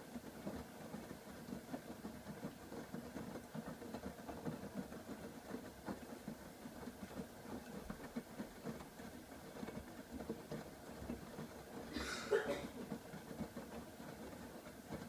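AEG Öko-Lavamat 85739 washing machine running its wash cycle: the motor turning the drum, with the irregular rumble of tumbling laundry and water. A brief louder noise about twelve seconds in.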